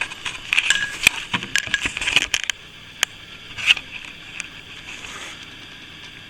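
Metal plastering trowel scraping and clicking against plaster and a hawk, a quick run of strokes for about two and a half seconds, then a few single scrapes and clicks.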